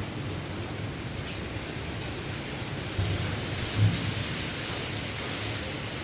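Strong wind blowing steadily, with gusts buffeting the microphone in two low thumps about three and four seconds in.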